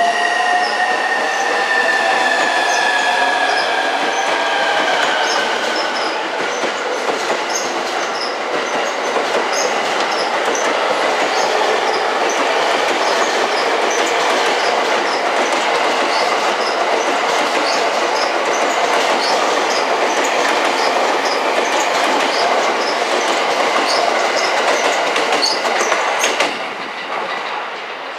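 JR East E231 series 1000 electric train pulling out and running past at close range. There is a steady rush of wheels on rail with quick clicking over the rail joints, and in the first few seconds a few tones slide down in pitch. The sound drops suddenly about two seconds before the end.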